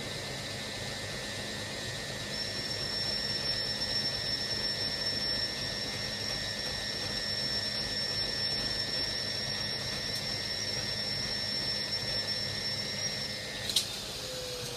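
Hoover washing machine's drum spinning with a steady motor hum and whine. A higher whine joins about two seconds in; near the end the motor cuts off with a click as the spin before the second rinse finishes.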